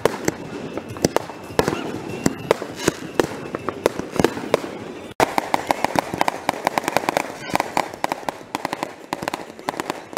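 Aerial fireworks display: shells bursting with sharp bangs, then from about five seconds in a dense, rapid crackling of many pops a second.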